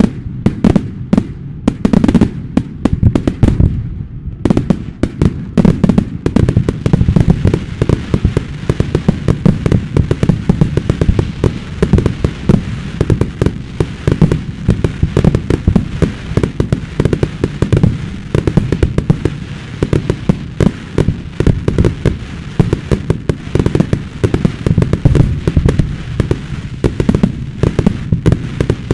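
Fireworks display: a dense, continuous barrage of shell bursts, several sharp bangs a second over deep booms.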